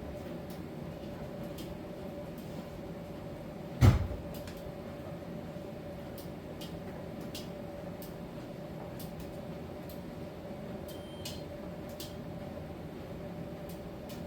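Miele T1 heat-pump tumble dryer running in its drying phase: a steady hum with a held mid-pitched tone, and faint light clicks scattered throughout. A single loud thump comes about four seconds in.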